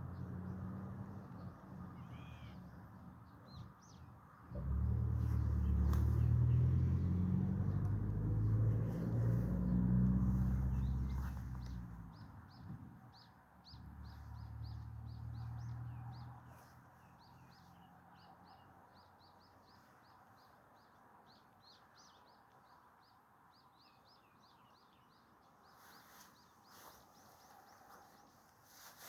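Small birds chirping with many quick repeated notes. A loud low rumble runs for several seconds in the first half.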